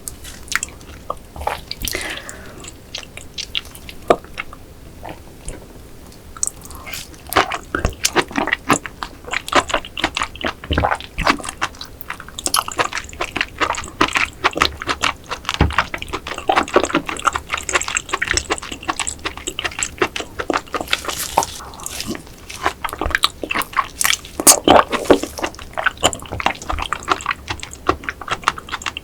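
Close-miked wet chewing of raw rock oyster in vinegar dressing: soft squelching and many small mouth clicks and smacks at an irregular pace.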